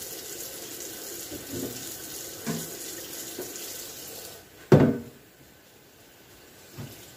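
Kitchen tap running into the sink as plastic fridge bins are rinsed, shut off about four seconds in, then one loud knock.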